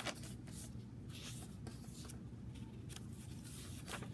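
Paper pages of a handmade junk journal being handled and turned: several soft, brief rustles and brushes of paper over a low steady hum.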